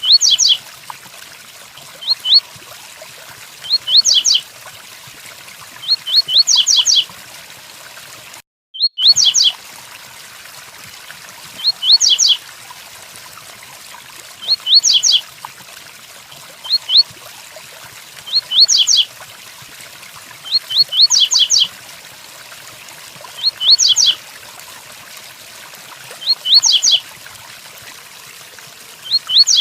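Double-collared seedeater (coleiro) singing its 'tui-tui' song: short phrases of two to four quick rising whistled notes, repeated about every two seconds, over a steady rain hiss. The audio cuts out completely for about half a second near a third of the way in.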